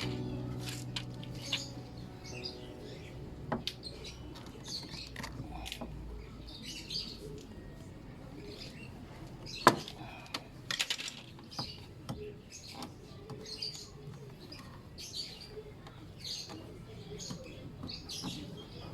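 Small birds chirping on and off in short high calls, with one sharp click about ten seconds in.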